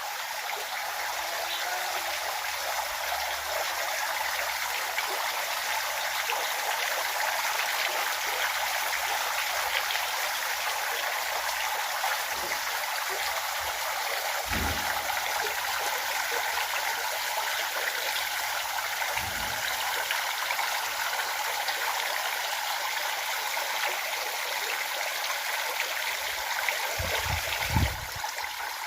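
Running water from a stream flowing steadily, with a few brief low thumps partway through and near the end.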